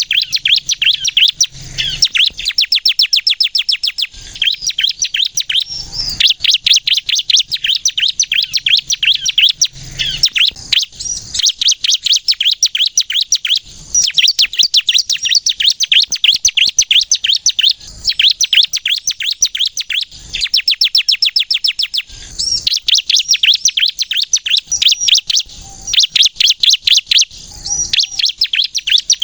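Bar-winged prinia (ciblek kristal) singing constantly. It gives long runs of rapid, sharp high notes, many per second, in phrases broken by brief pauses. This is the kind of song played as a lure to draw other ciblek.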